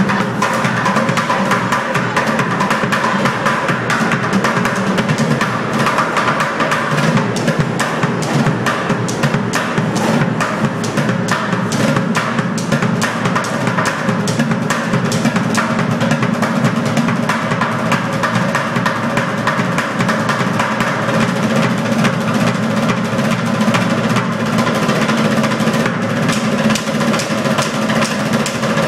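Street bucket drummers beating plastic pails with sticks in a fast, continuous rhythm of dense strokes.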